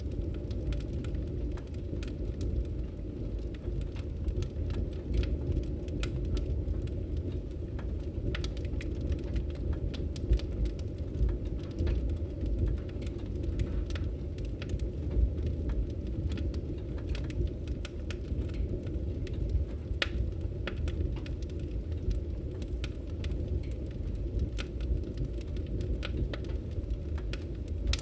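Wood fire in a fireplace crackling, with a steady low rumble of the flames and many small irregular snaps and pops.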